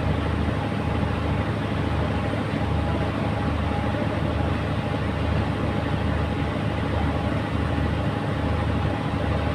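Boat engine running steadily, a constant low drone with a faint steady hum above it.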